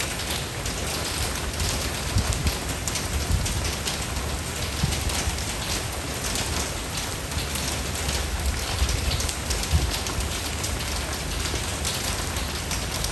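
Steady rain falling on a surface: a constant hiss of rain with many individual drops ticking through it and a low rumble underneath.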